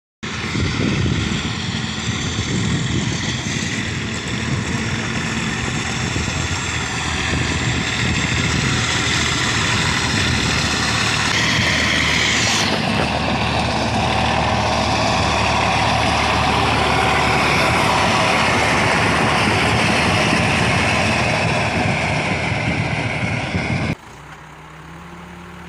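Tractor engine running steadily, as it works with a towed gang reel mower. Near the end the sound drops suddenly to a quieter, lower hum.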